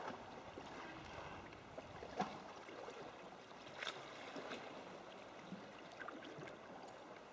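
Water lapping and dripping around a sea kayak, with a few faint short splashes or knocks, three of them more distinct.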